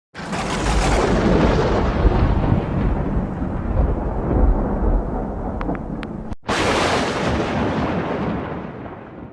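Thunder from lightning strikes: a sudden loud crack and rumble that goes on for about six seconds, then a hard cut to a second thunderclap that fades away near the end.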